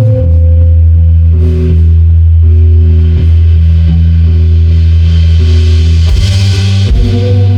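Live band playing loud, with bass and guitar holding long low notes over drums, and cymbals swelling near the end.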